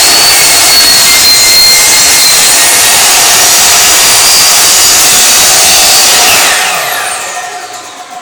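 Woodworking power tool running steadily at full speed, then switched off about six seconds in, its pitch falling as the motor spins down.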